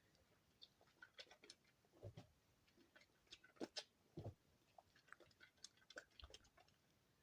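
Soap being handled by hand: faint, irregular crackles and small clicks, with a few soft taps as pieces are pressed or set down.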